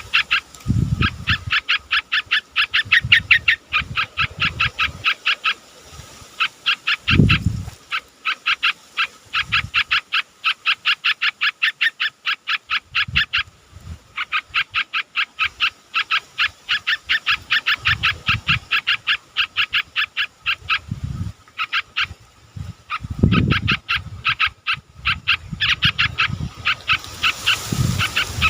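Yellow-vented bulbuls calling in long runs of rapid, evenly repeated chirps, about eight a second, with brief breaks. Scattered dull low thumps sound underneath.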